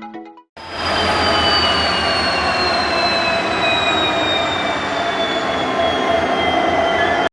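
Train wheels squealing on the rails over a steady rumble. Several high squealing tones slowly fall in pitch throughout. The sound starts abruptly about half a second in and cuts off suddenly at the end.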